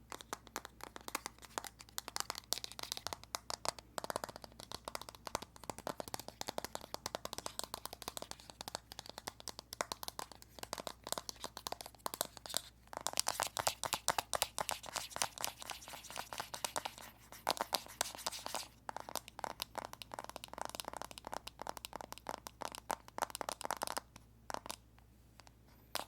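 Fingers tapping rapidly on an iPhone, making a dense stream of small, crisp clicks. The tapping stops briefly about twelve seconds in, again near nineteen seconds, and once more shortly before the end.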